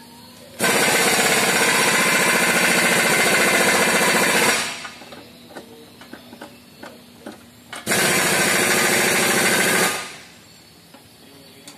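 Impact wrench running in two bursts, about four seconds and then about two seconds long. Each cuts in abruptly as a fast hammering and trails off, with light clicks of handling between them. It is driving in the bolts of the propeller shaft's center support bearing.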